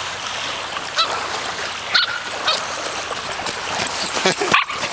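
A dog gives a few short barks and whines, spaced about a second apart, over the steady wash of small waves on the lake shore.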